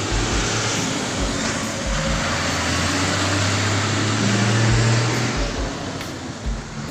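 Road vehicle noise: a rushing engine and tyre sound that swells for about five seconds and then fades, with low thuds underneath.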